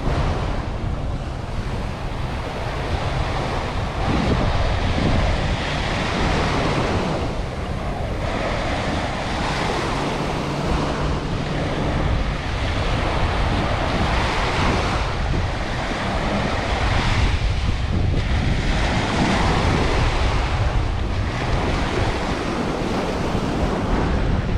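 Ocean surf breaking and washing up the beach, swelling and easing every few seconds, with heavy wind rumble on the microphone.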